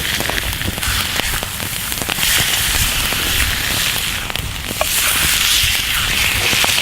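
Pork chops sizzling in a cast iron pan over a campfire: a steady hiss with scattered small crackling pops.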